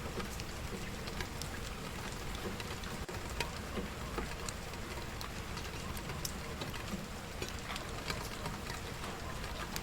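Steady rain falling, mixed with scattered sharp crackles and pops from burning wood in a fireplace.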